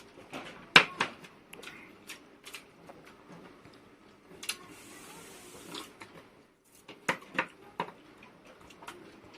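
Scattered sharp clicks and taps of people eating, with a short stretch of hiss about halfway through.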